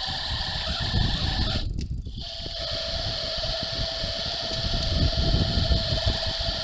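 DIY dual friction-drive e-bike running on a 24 V battery: the electric motors' rollers spinning against the tyre give a steady whine, over a heavy rumble of wind and road noise. The upper sound briefly drops out about two seconds in.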